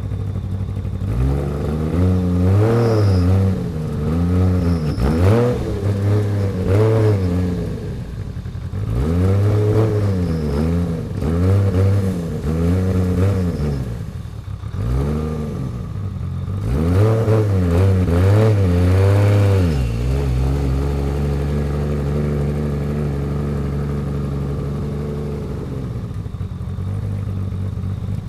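Built RB26 inline-six of a single-turbo (Garrett GT3076) Nissan Skyline GT-R, revved in a series of quick blips, then settling about twenty seconds in to a steady idle.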